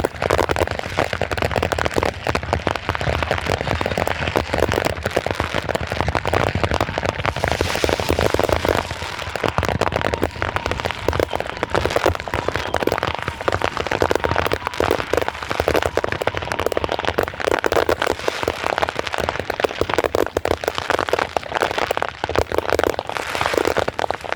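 Dense, continuous crackling and popping of fireworks and firecrackers: many small bangs overlapping without a break.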